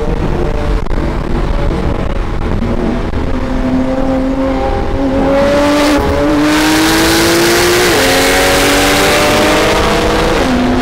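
Lamborghini Aventador SV's naturally aspirated V12 heard from inside the cabin, accelerating hard through the gears. The pitch rises and drops back at each upshift, several times, and the engine gets louder about halfway through.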